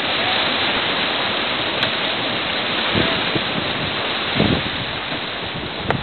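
Steady rush of wind over the microphone and water streaming past a sailing yacht under way.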